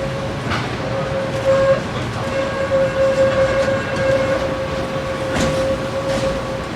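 Tram running on its rails: a rumbling ride with a few clicks and a steady whining tone that stops near the end.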